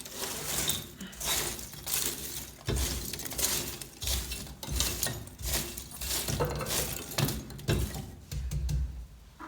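Repeated metallic scraping and clinking as a small shovel works ash and leftover charcoal in a wood-burning fireplace. Cinders rattle against the metal in irregular strokes.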